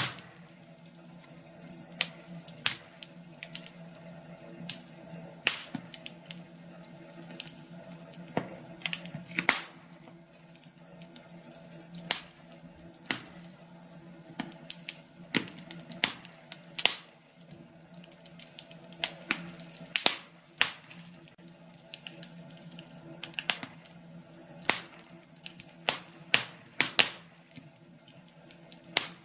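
Wood fire crackling in a fireplace: irregular sharp pops and snaps, about one or two a second, over a soft steady hiss.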